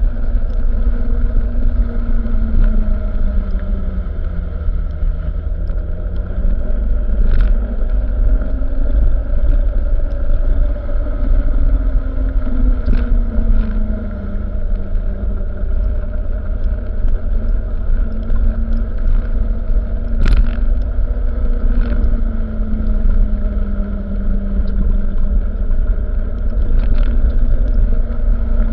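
Truck engine running steadily under a heavy low rumble, its pitch drifting slowly up and down, with a few sharp clicks now and then.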